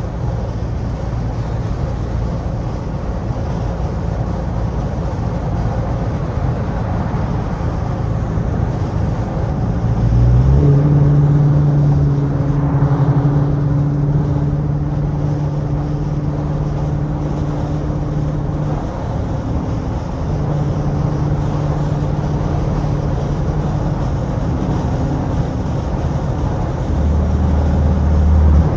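Straight-piped Dodge Charger R/T V8 exhaust droning on the move. About ten seconds in it steps up to a louder, steady tone, drops back briefly a little before the twenty-second mark, picks up again, and settles to a deeper note near the end.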